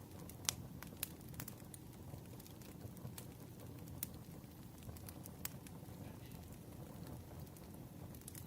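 Wood fire burning, with irregular sharp crackles and pops over a low, steady rumble.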